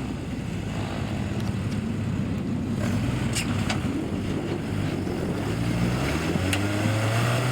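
Toyota 4x4 truck's engine running at low revs as it crawls over rocks, rising in pitch about six seconds in as the throttle is opened. A few sharp ticks sound midway.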